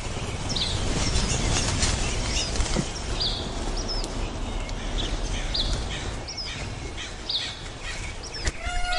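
A bird chirping short, repeated high calls, about one a second, over a steady background hiss and low rumble. A sharp click comes near the end.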